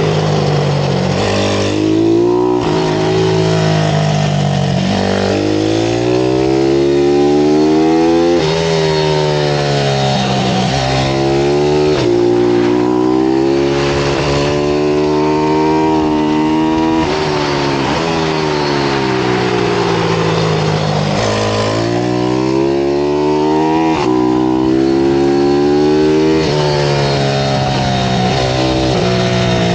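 Pit bike engine at racing speed, its pitch climbing again and again under acceleration, dropping sharply at upshifts and falling away as it slows, over several cycles.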